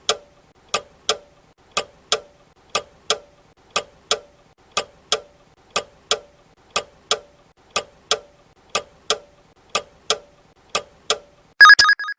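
Countdown-timer sound effect: a clock ticking in tick-tock pairs, about one pair a second. Near the end a short, loud ringing tone marks the end of the answer time.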